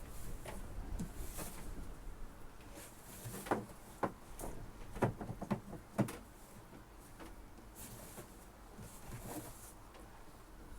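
Handling sounds: a handful of light knocks and clicks around the middle, about half a second to a second apart, over a faint steady hiss.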